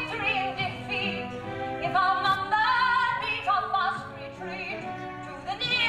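A woman singing a Broadway show tune in full voice with orchestral accompaniment, the long held notes wavering with vibrato.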